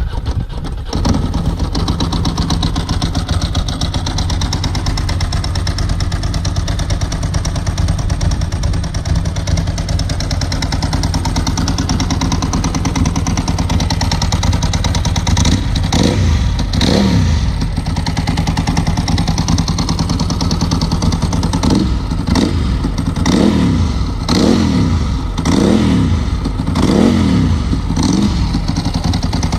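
Ducati 748 L-twin engine with a Termignoni exhaust, starting up and settling into a steady idle. About halfway through it is revved twice. Near the end it gets about six quick throttle blips, each rising and falling in pitch.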